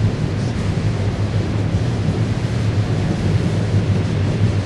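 Freight cars of a unit trash train rolling past on the rails, a steady low rumble of steel wheels on track with no let-up.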